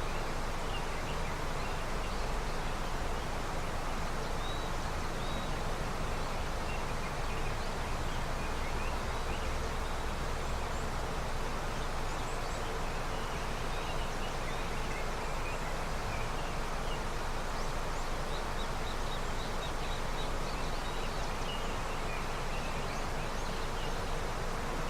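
A river in early snowmelt flowing, a steady rush of water, with small birds chirping faintly throughout.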